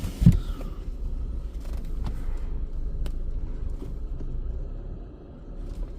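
Car engine idling: a steady low rumble, with a short thump just after the start and a few faint clicks.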